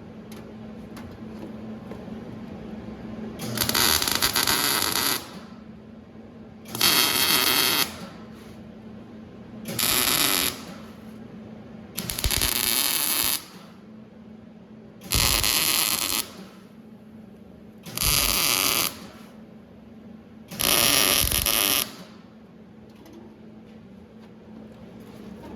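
MIG welder laying a series of tack welds on sheet-steel firewall panel: seven short bursts of crackling arc, each about a second long and a few seconds apart, starting and stopping abruptly. A steady low hum runs underneath.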